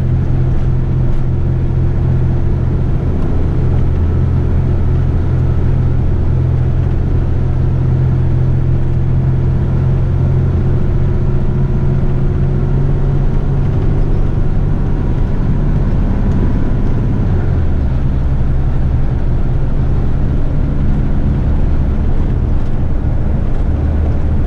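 Diesel engine of an eight-wheeler twin-steer rubbish truck running steadily while the truck is driven, heard from inside the cab. The engine note drops to a lower pitch about three-quarters of the way through.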